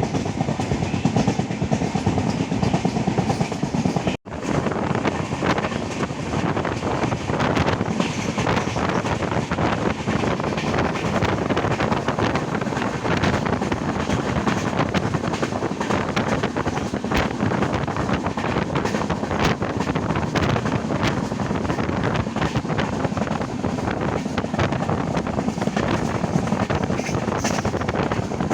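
Indian Railways passenger train running at speed, heard from a coach: a steady rumble with the clickety-clack of wheels over rail joints. The sound drops out briefly about four seconds in and resumes.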